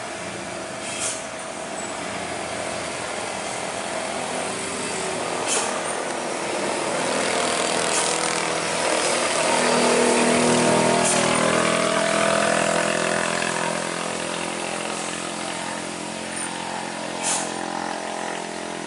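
A heavy truck's diesel engine running under load, growing louder as it nears, peaking about halfway through, then easing off. A few short sharp clicks are heard over it.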